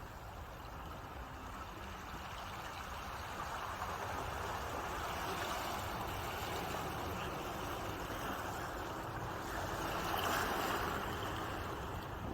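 Ocean waves washing in, a steady rush of surf that swells to its loudest about ten seconds in and then eases.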